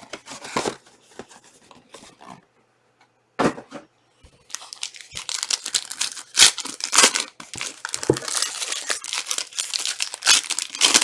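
Plastic wrapping on trading-card packaging being torn open and crinkled, with dense crackling starting about four seconds in after a brief quiet.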